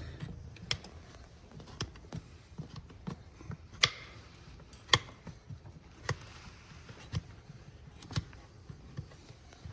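Farrier's trimming tools cutting hard, dry hoof horn: a run of sharp snaps and clicks, the loudest about once a second, with fainter ticks between.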